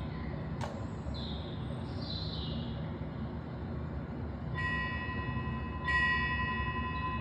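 A bell struck twice, about a second and a half apart, each stroke ringing on with a clear steady tone, over a steady low rumbling noise bed.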